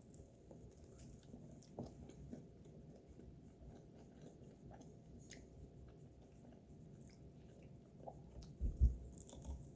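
Quiet chewing and biting of chicken wings, with faint clicks and a low thump near the end.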